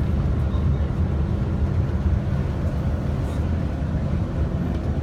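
Steady engine and road rumble inside the cabin of a moving tour coach.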